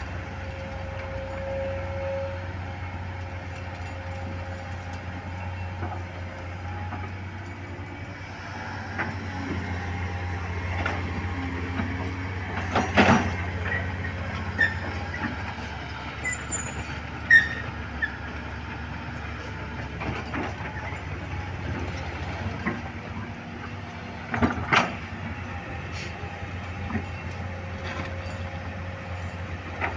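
Heavy diesel machinery running with a steady low drone, with a few sharp metallic knocks scattered through, the loudest about halfway through.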